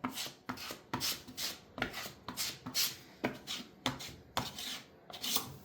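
Quick, faint rubbing strokes made by hand on a surface, repeated evenly at about three a second.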